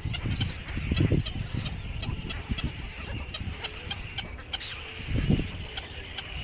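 Birds calling with many short, sharp chirps over a steady high background of bird sound, mixed with uneven low thuds and rumbles, loudest about a second in and again about five seconds in.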